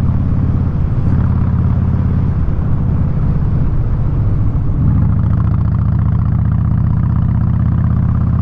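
Harley-Davidson Street Bob's V-twin engine running through a Vance & Hines exhaust while riding. The engine note wavers between about two and five seconds in, then holds steady.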